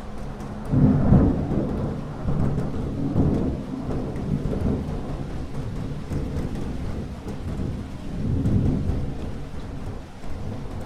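Thunder rumbling over steady rain, with the loudest rumble about a second in and another swelling up near the end.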